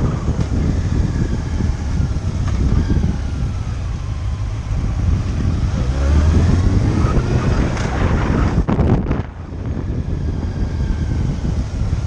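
Motorcycle engine running on the move, its pitch rising and falling with changes in speed, under wind buffeting the microphone. The sound drops out briefly about nine seconds in.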